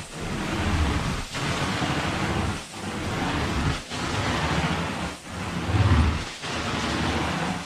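Carpet-cleaning extraction wand hissing with strong suction as it is worked over carpet in repeated strokes, the noise dipping briefly about every second and a quarter between strokes.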